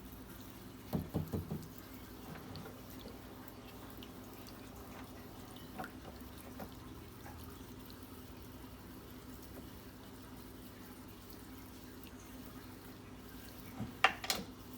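Tabletop water fountain dripping and trickling faintly over a steady low hum from its pump, with a few handling knocks about a second in and twice near the end. The water is not rising to the top of the fountain because a piece of its plumbing has popped out.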